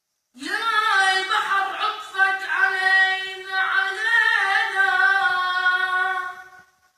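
A single unaccompanied high voice singing one long, ornamented phrase of an Arabic chant, the pitch wavering around one note. It starts a moment in and fades out just before the end.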